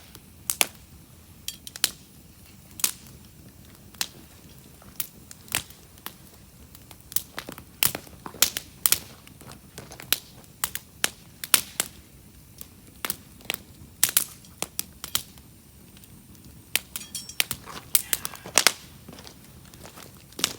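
Wood campfire crackling, with irregular sharp pops and snaps from the burning firewood, several a second at the busiest moments.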